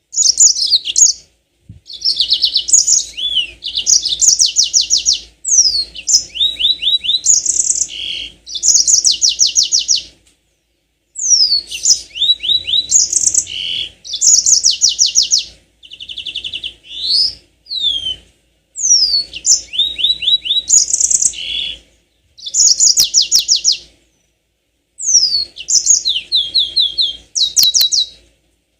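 Yellow-fronted canary (Mozambique canary) singing in high phrases of fast trills and rapidly repeated notes, each phrase a few seconds long and broken by short silences.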